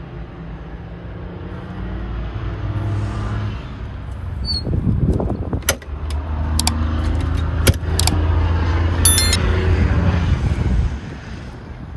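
Low rumble of a vehicle engine running nearby, swelling about four seconds in and easing off near the end, with a few sharp clicks and knocks.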